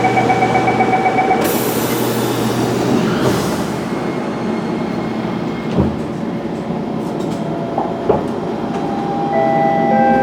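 Siemens C651 metro train running on the rails, with a steady rumble and whining tones. A bright hiss comes in about a second and a half in and fades a couple of seconds later, and there are two short knocks in the second half.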